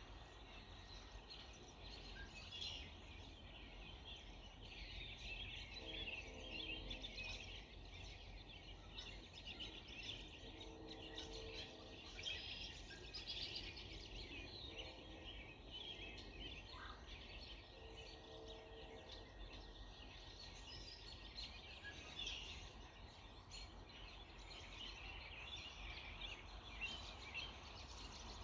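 Early-morning chorus of many small birds chirping and twittering continuously. A lower, pitched call repeats four times, each about a second long.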